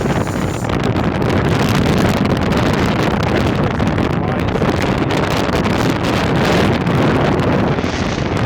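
Strong wind buffeting the microphone, a loud rumbling rush that rises and falls in gusts.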